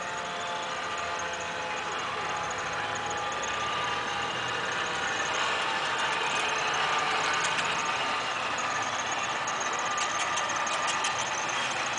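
A vehicle engine running steadily under a broad rushing noise that slowly grows louder, with a few sharp clicks or crackles near the end.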